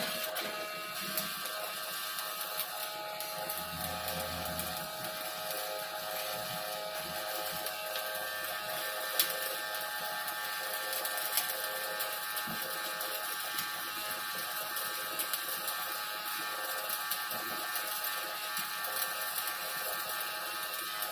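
Stick welding (SMAW) arc on carbon steel pipe: a steady, dense crackle and hiss with occasional sharper pops as the electrode burns.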